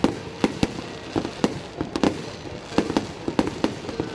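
Fireworks display going off in a rapid, irregular series of sharp bangs, about three a second.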